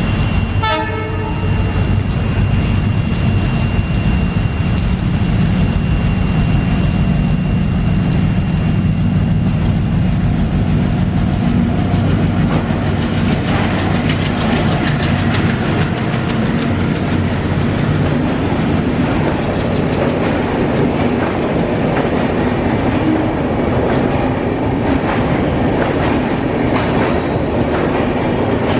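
Diesel-hauled passenger express train approaching and passing, with its locomotive's engine humming steadily. About two-thirds of the way through, the coaches' wheels start clicking over the rail joints in a quickening clatter.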